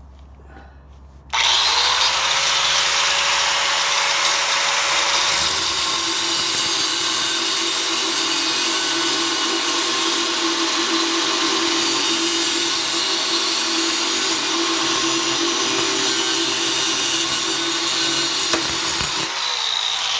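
A power tool, used in removing the muffler from a car's exhaust, starts abruptly with a short rise in pitch, then runs steadily with a hissing edge and a steady hum before stopping shortly before the end.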